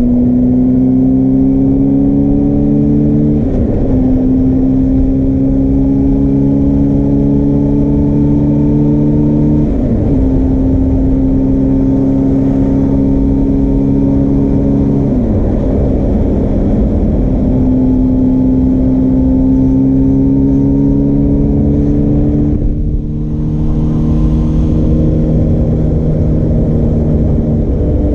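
Suzuki GSR400 inline-four engine through a Yoshimura Cyclone Tri-Oval exhaust, pulling under load with its pitch rising slowly. The revs dip briefly four times, about every six seconds, and then climb again.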